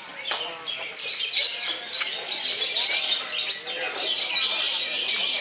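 Several lovebirds chattering together in a dense, unbroken run of high chirps.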